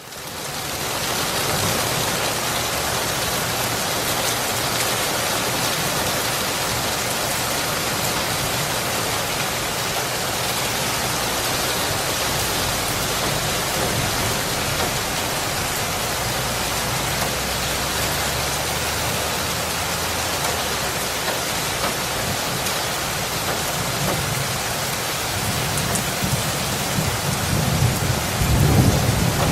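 Steady heavy rain hissing, fading in over the first second. A low rumble of thunder builds in the last few seconds.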